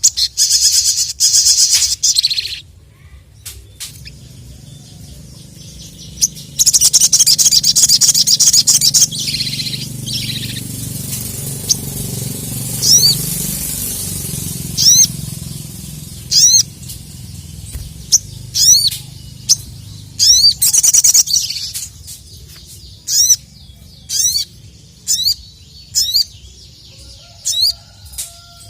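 Sogok ontong (sogon) singing in full song: loud rapid high trills in the first few seconds and again a few seconds later, then a run of short sharp downward-sweeping chirps about once a second.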